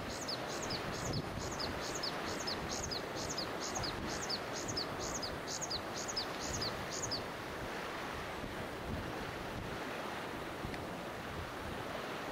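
A bird calls a rapid series of high, sharply falling notes, about three a second, that stops about seven seconds in, over a steady rush of wind and lapping water.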